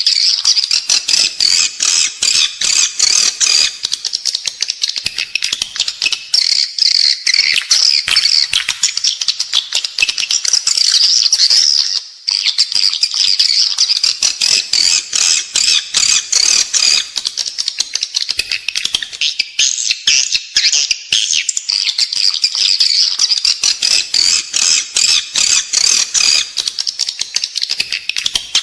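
Edible-nest swiftlet calls, a lure recording used inside swiftlet nesting buildings: a loud, dense chorus of rapid high chirps and twitters, with a brief break about twelve seconds in.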